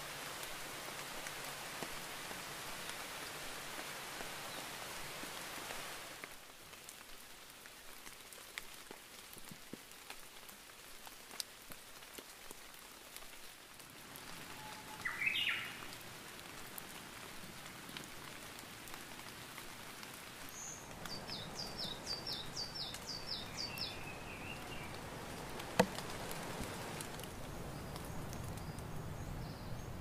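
Outdoor woodland ambience: a steady hiss for the first six seconds, then quieter. Birds call over it: one short rising call about halfway through, and later a quick run of about six high notes followed by a lower call. One sharp click comes near the end.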